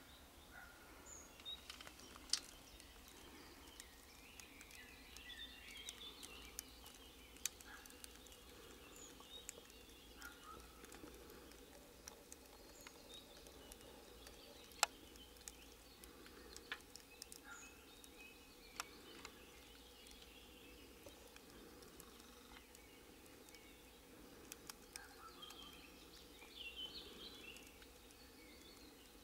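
Faint bird chirps here and there, with a dozen or so sharp clicks and taps scattered through.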